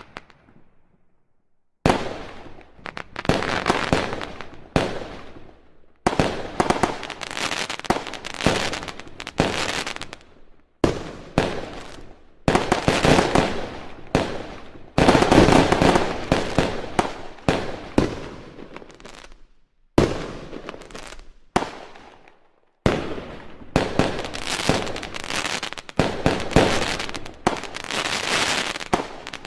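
Fireworks going off in dense runs of rapid bangs and crackling. Each run starts abruptly and lasts a few seconds, with a second or two of silence near the start and another brief gap around two-thirds of the way through.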